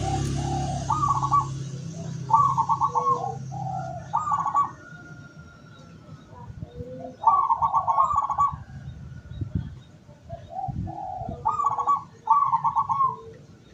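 Zebra dove (perkutut) cooing: three bouts of its song, each a few short soft notes running into a rapid trilled coo. A steady low hum fades out over the first couple of seconds.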